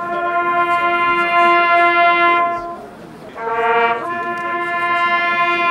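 Two-tone locomotive horn from a model train's sound decoder. A long low note sounds, stops, then after a short pause a brief higher note runs straight into another long low note.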